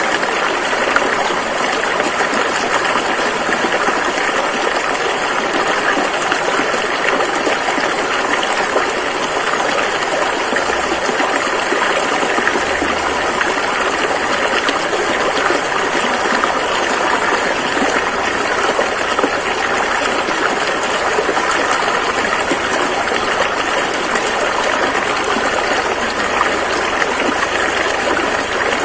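Rushing river water, a steady loud gushing of fast-flowing current over rocks.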